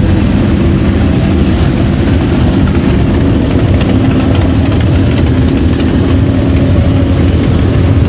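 A motor vehicle engine running steadily at low revs, loud and deep, with no clear revving.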